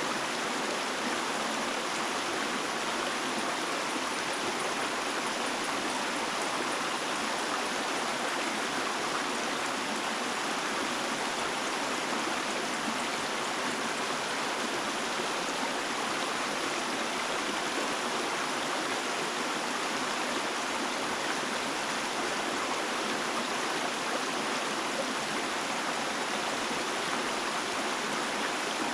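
Flowing water making a steady, even rush with no breaks or single splashes.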